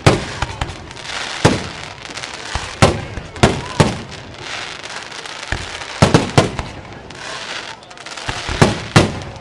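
Elia Fireworks display: shells bursting in loud bangs, roughly one a second and sometimes two in quick succession, each with an echoing tail, over a continuous crackle.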